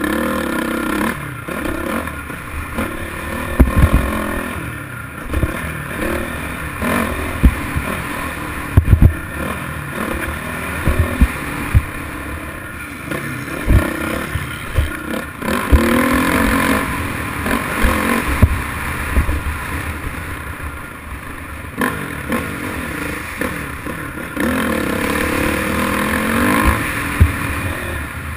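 Motocross bike engine revving up and down repeatedly, climbing in pitch through the gears and dropping off, with frequent short low thumps and some clatter.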